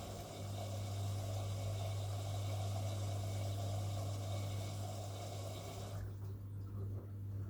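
Washing machine running: a steady low hum under a rushing hiss, the upper hiss cutting off abruptly about six seconds in while the hum carries on.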